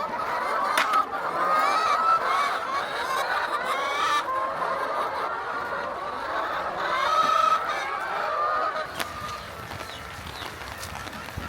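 A flock of poultry calling, many overlapping calls at once, growing a little fainter near the end.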